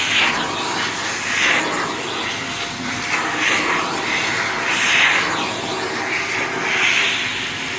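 Vacuum cleaner running on its lowest setting as the nozzle is worked over a bulldog's coat, a steady motor noise with a hiss that swells and fades every second or two.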